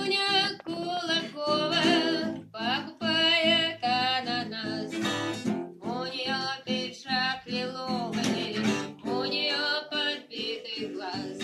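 Acoustic guitar strumming with a singer's voice over it: a live song.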